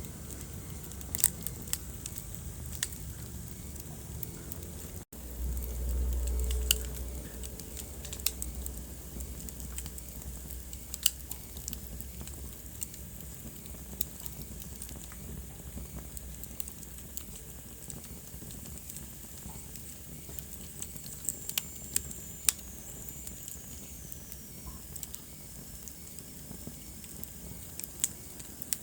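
Wood fire in a fireplace crackling, with scattered sharp pops over a low steady hiss. A low rumble rises briefly about five seconds in, and a faint high whistle falls in pitch later on.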